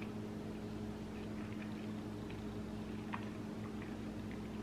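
Faint, soft mouth clicks of someone chewing with the mouth closed, heard over a steady low hum of room tone.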